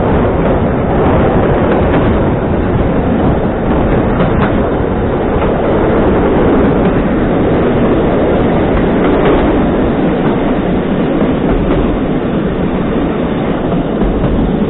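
EN57 electric multiple unit running along the track, heard from inside the carriage: a steady running noise of wheels on rails with occasional faint clicks.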